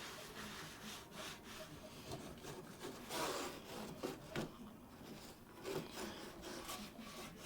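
Hand scrubbing and wiping of a greasy surface during degreasing: irregular scratchy rubbing strokes, louder for a stretch about three to four seconds in.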